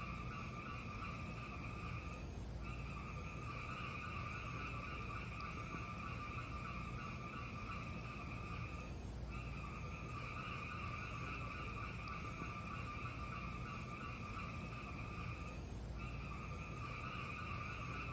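Fireplace sound: a steady rushing hiss with faint crackles. It dips briefly three times at even intervals, about every seven seconds, as a repeating loop would.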